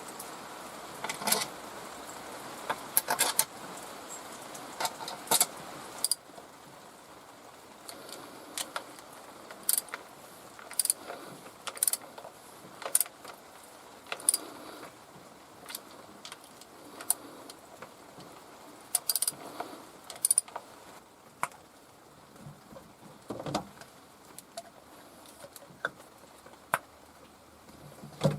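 Scattered sharp metallic clinks and taps of hand tools and metal parts being handled during engine work. A steady hiss underneath stops about six seconds in.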